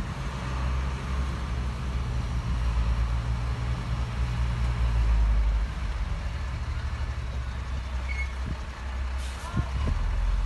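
Heavy diesel earthmoving machinery running: a steady low engine rumble that swells a little past the middle and eases off about two-thirds of the way through.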